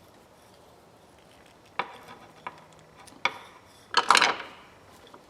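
Metal hand tools clinking on a workbench: a few light clicks and knocks, then a louder metal clatter about four seconds in.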